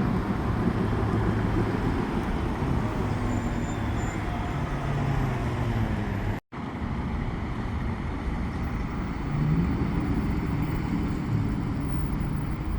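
Heavy vehicle engines running with road traffic noise, a steady low drone. About six and a half seconds in, the sound drops out completely for a moment, then the drone resumes.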